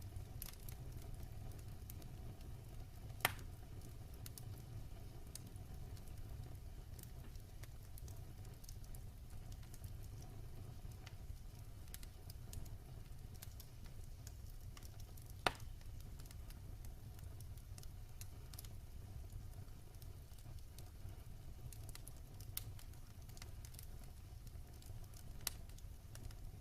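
Wood fire burning in a fireplace: a steady low rumble of flame with scattered crackles and snaps, two sharper pops about 3 seconds and 15 seconds in.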